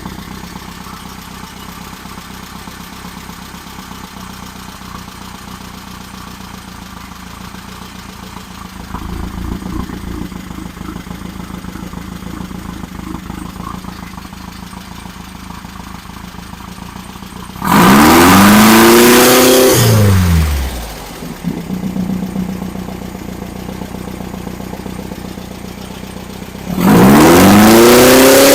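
A freshly assembled engine on its camshaft break-in runs steadily, then is revved hard twice: the pitch climbs and falls back over about two seconds near the two-thirds mark, and again near the end. These are throttle blips that test the ignition timing for acceleration and idle.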